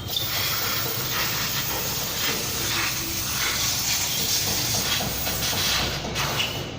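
A steady, loud hiss that eases off near the end.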